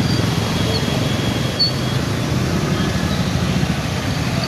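Steady road traffic noise with a low rumble, and a few faint short high chirps over it.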